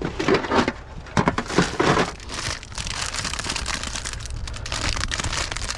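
Snack packaging and plastic bags crinkling and rustling as items are rummaged through and handled. It comes in loud irregular bursts for the first couple of seconds, then settles into a steady dense crinkling.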